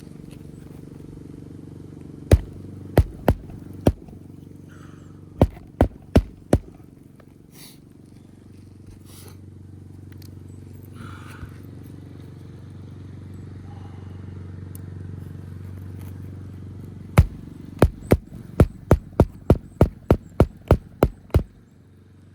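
Magnetic roofing hatchet driving nails into asphalt shingles: sharp strikes in groups, four, then four more, then a quick run of about a dozen near the end. A steady low hum lies under them.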